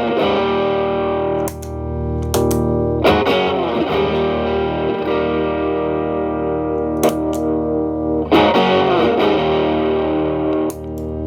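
Electric Telecaster guitar through an Xotic BB overdrive pedal into a Marshall Valvestate amp's clean channel, driven lightly with the drive cleaned up. It is playing chords that ring out, restruck about six times.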